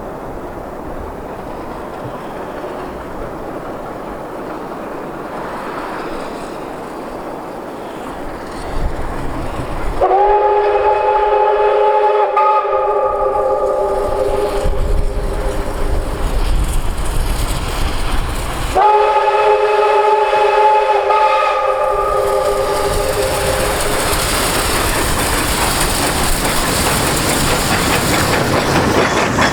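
LV-class steam locomotive approaching with two long blasts of its chime-like steam whistle about nine seconds apart, each held about three seconds. The train then passes close, loud and steady, with its wheels clattering over the rail joints.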